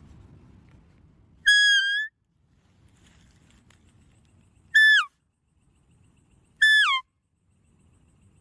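An animal giving short, high, clear calls three times, each call holding its pitch and then dropping at the end, over faint low background noise.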